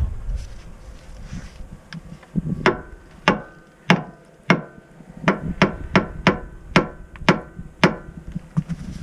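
A hammer striking metal about eleven times, roughly one blow every half second, each blow leaving a brief metallic ring.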